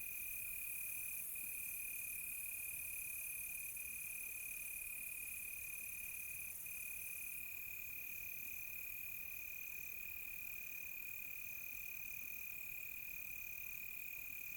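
Night insect chorus. One cricket trills steadily, with only a few tiny breaks, under a second, higher-pitched insect that chirps on and off every second or so, over a high-pitched hiss of many more insects.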